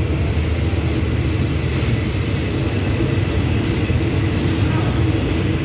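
Passenger coaches of an ordinary train rolling slowly past along a station platform, making a steady low rumble.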